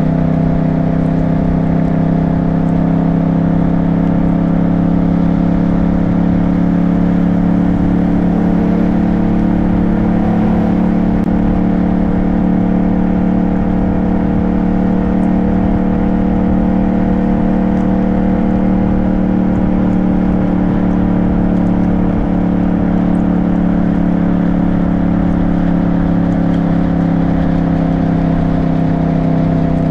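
Motorcycle engine running at a steady cruising speed, its pitch drifting only slightly, over constant wind and road noise.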